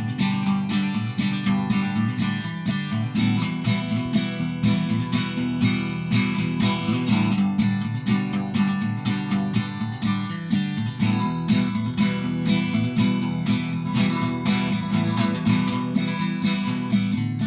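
Acoustic guitar music: strummed chords in a steady, even rhythm.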